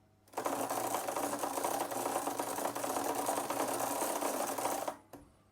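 E-bike freewheel clicking rapidly and steadily as the cranks are turned backwards to thread a pedal in. It stops abruptly about five seconds in.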